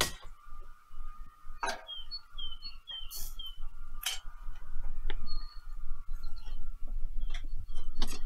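Small birds chirping in short, falling notes, several in quick succession in the first half, with a few sharp knocks in between.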